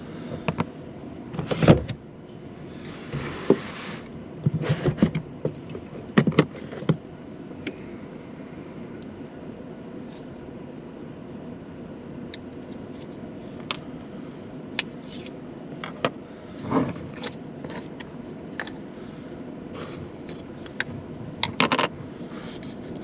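Scattered clicks, knocks and light scrapes, like small objects being handled and set down, over a steady low hum.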